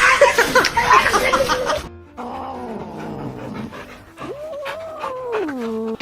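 A dog making sounds over background music, with an abrupt cut about two seconds in, after which sustained gliding tones slide downward near the end.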